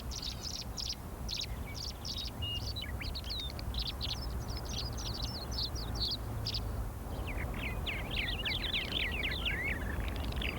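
Songbirds singing: many quick, high chirps and trills overlapping, busier and more sweeping in the second half, over a steady low hum.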